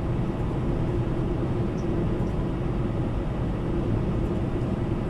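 Steady low rumble of a semi-truck's engine and road noise heard inside the cab while driving.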